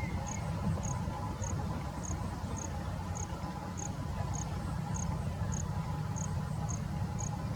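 An insect, likely a cricket, chirping: short high chirps at a steady rhythm of a little under two a second. Under it runs a continuous low rumble.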